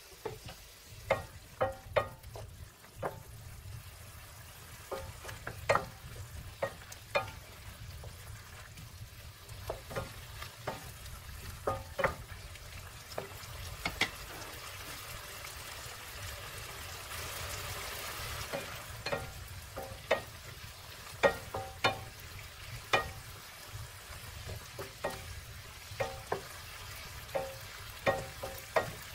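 Chopped poblano peppers frying in oil in a pan: a steady low sizzle with frequent sharp pops and knocks. A wooden spatula stirs them near the end.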